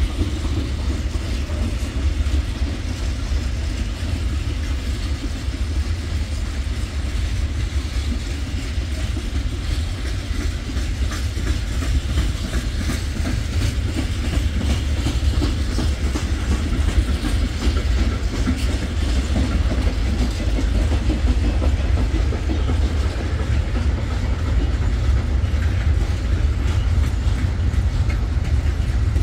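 Freight train wagons rolling past: empty flat wagons, sliding-wall wagons and tank wagons. Their wheels make a steady rumble on the rails, with clacking over the rail joints.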